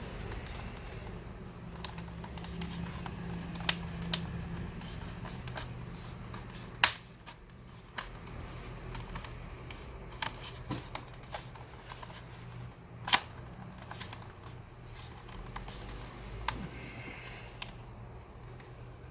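Scattered sharp plastic clicks and snaps as the tight clips of an HP 15s laptop's plastic case are pried at, over a low steady hum; two louder snaps stand out, about seven and thirteen seconds in.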